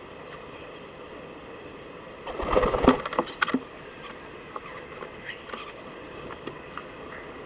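Animals scrabbling at a garden feeder: a sudden burst of scuffling and knocking about two and a half seconds in, then a few light ticks, over a steady background hum.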